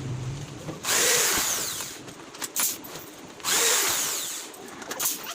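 Power drill running in two short bursts of about a second each, the second starting about three and a half seconds in. The pitch falls in each burst, with small clicks between them.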